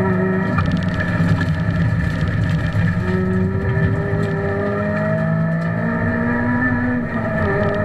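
Honda Civic Type R rally car's four-cylinder engine running hard along a stage, heard from inside the cabin, its pitch mostly steady and edging up in the second half, with a brief dip about seven seconds in.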